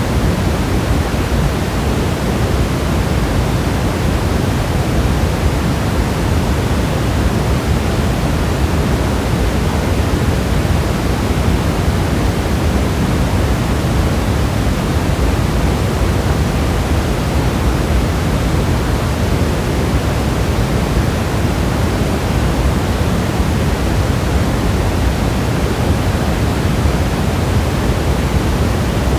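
Rain as a steady, even rushing hiss at an unchanging level, heaviest in the low end, with no single drops standing out.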